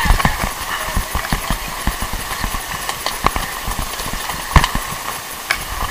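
Irregular knocks and thumps over the steady hum of the boat's engine.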